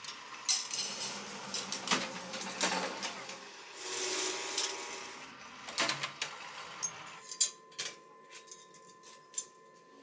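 Metalworking sounds: a series of sharp metallic clicks and clinks with tool noise, and a faint steady machine whine in the second half.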